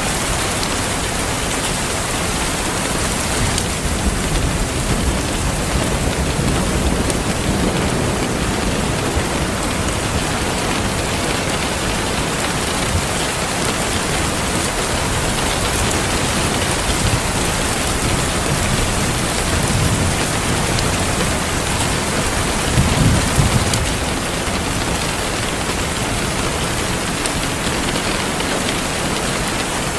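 Steady heavy rain with rolling thunder. The low rumbles swell several times, the strongest a little after the middle.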